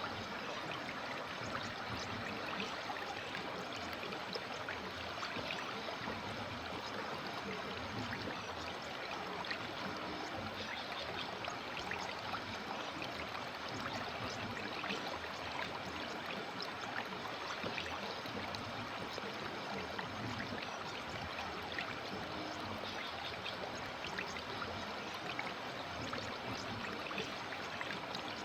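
River water flowing, a steady rush of water with many small splashes and trickles.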